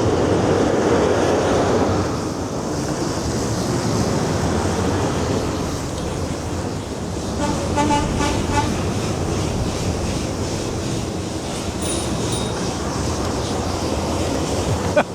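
Steady wind rush and road noise while riding a bike along a road, a little louder in the first two seconds. A brief high-pitched sound comes about eight seconds in.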